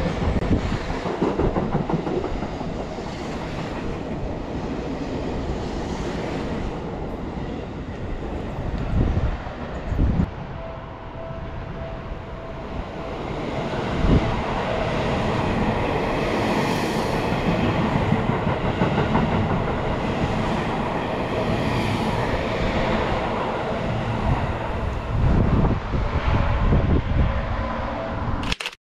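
Seibu 001 series "Laview" limited express electric train running alongside a station platform, its wheels clattering over the rail joints. After a short lull a second pass follows, and the sound cuts off suddenly near the end.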